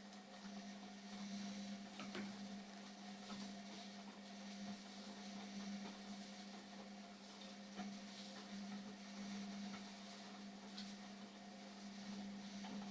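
Indesit washing machine running a wash cycle: a low, steady motor hum with a few faint clicks.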